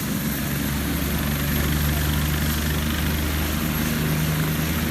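Police helicopter's engine and rotor running steadily, getting a little louder, as it prepares to take off.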